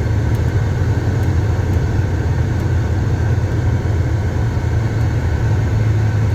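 Semi-truck diesel engine running with a steady low drone.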